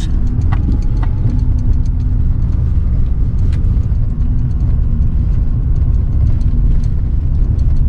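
Car engine running with a steady low rumble as the car moves slowly, with a few faint clicks and knocks.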